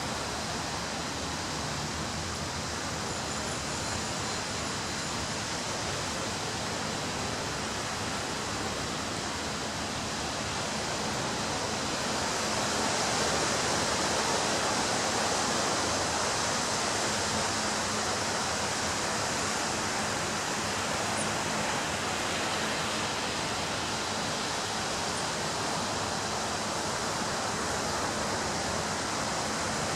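Ocean surf breaking on a beach: a steady wash of waves that swells about twelve seconds in and then eases off slowly.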